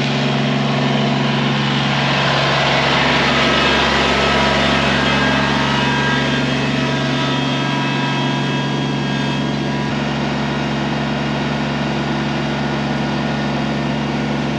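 Kubota BX23S sub-compact tractor's three-cylinder diesel engine running steadily while dragging a chained log, getting slightly louder a few seconds in.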